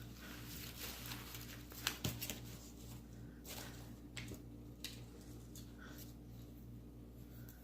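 Faint rustling and a few light clicks as artificial roses and their ties are handled and set against a bird cage, the sharpest click about two seconds in, over a steady low electrical hum.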